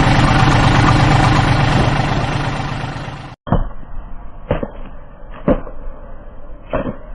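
Engine sound running steadily and slowly fading, then cut off abruptly about three seconds in. It is followed by a series of sharp knocks or cracks, roughly one a second.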